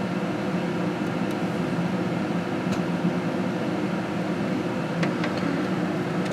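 Steady low mechanical hum of a running room appliance, with a few faint light clicks.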